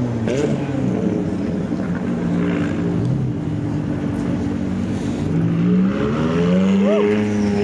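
Several car engines idling together. About six seconds in, one engine's pitch rises and holds higher, as in a light rev.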